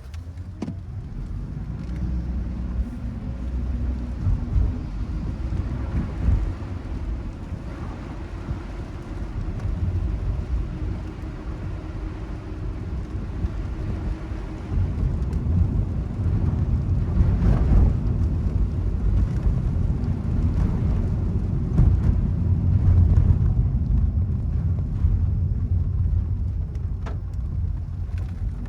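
Car driving on a wet road in the rain, with a steady low rumble of tyres and road. A few short clicks sound now and then.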